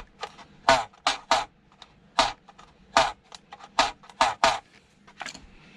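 A sewing machine being taken apart by hand, with about seven short, sharp strokes coming at an irregular pace, each a brief rasping click of tool on metal or plastic parts, while a stuck part resists coming off.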